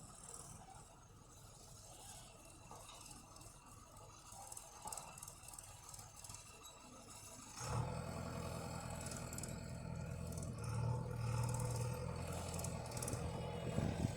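Faint rattling and scraping, then about halfway through a tractor's diesel engine comes in suddenly with a steady, even drone that runs on to the end.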